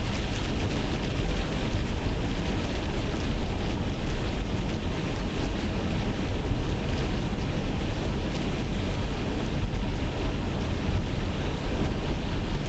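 Steady road noise of a car being driven at an even speed, tyres and engine running with no change.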